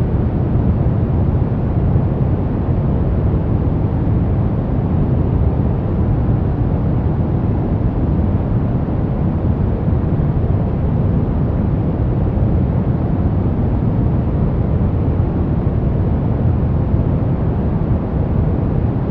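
Continuous generated noise of a white-noise sleep track, steady and unchanging: a deep, even rush, heaviest in the bass, with only faint hiss at the top.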